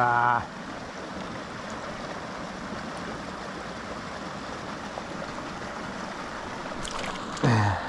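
Steady rush of a small mountain creek flowing over rocks. A short wordless voice sound is heard right at the start, and another, falling in pitch, near the end.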